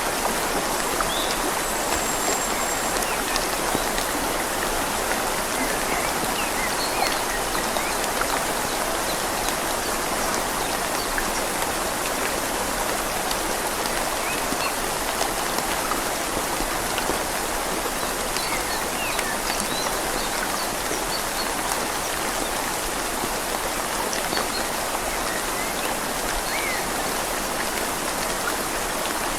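Steady rain falling on leaves, blended with the even rush of a flowing river: a continuous hiss with no let-up.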